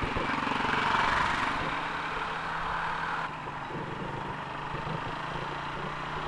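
Suzuki Raider 150 motorcycle engine running steadily at low speed. A rushing noise swells and fades over the first two seconds or so.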